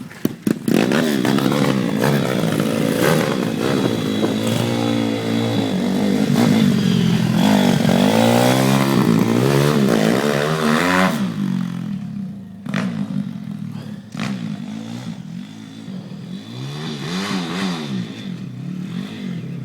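Pit bike engine revving close by, its pitch climbing and dropping as it is ridden hard, then falling back to a quieter, more distant running with more rises and falls in pitch after about eleven seconds.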